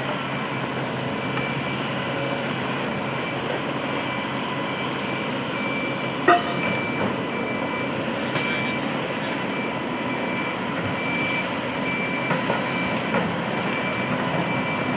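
Construction machinery running steadily, with a single sharp knock about six seconds in and a faint high beep repeating in short pulses.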